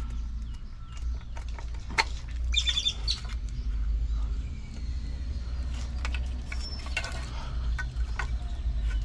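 Scattered clicks and light knocks from wiring connectors and plastic trim being handled and pulled loose, over a steady low rumble, with one sharp click about two seconds in and a short high chirping sound just after it.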